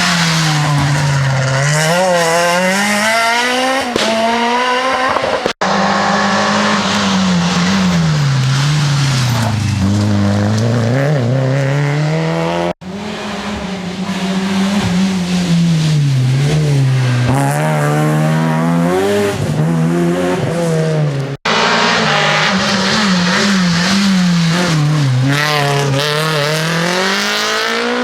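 Rally car engines revved hard, their pitch climbing and dropping again and again through gear changes and lifts off the throttle, with some tyre squeal. The audio is four separate passes joined by abrupt cuts.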